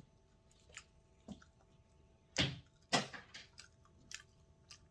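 Wet, squishy mouth sounds of someone chewing food close to the microphone: a string of short smacks, the two loudest about two and a half and three seconds in.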